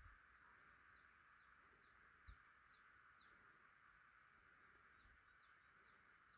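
Faint birdsong: two runs of short, quick downward-sliding chirps over a steady faint hiss, with one soft low thump about two seconds in.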